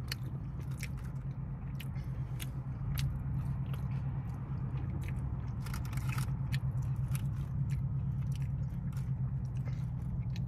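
Close-up chewing and crunching of fast food, many sharp crackly clicks at an uneven pace, over a steady low hum.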